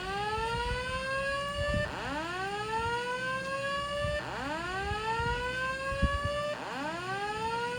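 Fire alarm speaker strobes sounding the slow-whoop evacuation tone: a rising sweep that restarts about every two seconds, four times, in the gap between voice evacuation messages.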